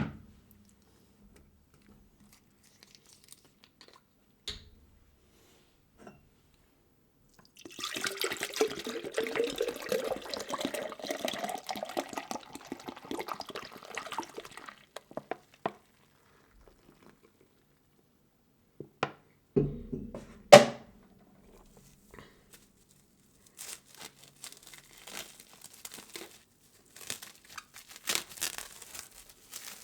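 Liquid poured into a container for about seven seconds, its pitch rising steadily as the container fills. Two sharp knocks follow, the second the loudest, and then scattered crinkling and crackling as food is handled.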